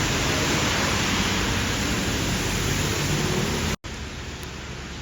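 Rain falling as a loud, steady hiss that cuts off abruptly a little under four seconds in and gives way to softer rain with faint patters of drops.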